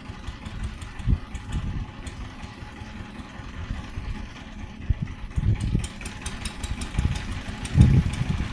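Power tiller engine running with an uneven low thudding. About two-thirds of the way through, a quick light clicking rattle joins in.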